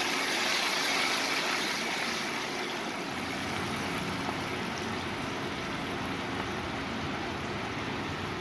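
Freshly ground tomatoes sizzling as they hit hot oil with cumin seeds in an aluminium karahi, loudest at first and easing over the first few seconds into a steady sizzle.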